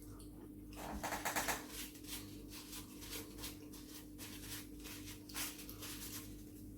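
Close-up chewing of crisp fried chicken burger: a run of irregular crackling crunches, thickest about a second in, over a faint steady hum.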